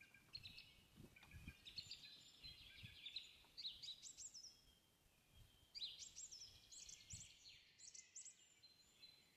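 Faint birdsong: small birds chirping and trilling in quick high sweeping notes, pausing briefly about halfway through, with a few soft low rumbles underneath.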